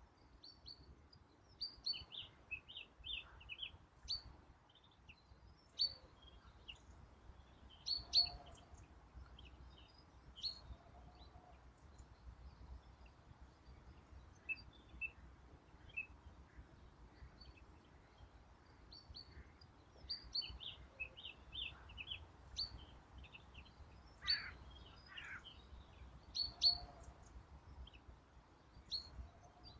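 Songbirds chirping faintly, with short high chirps scattered throughout and a couple of longer sliding calls about two-thirds of the way through, over a faint low rumble.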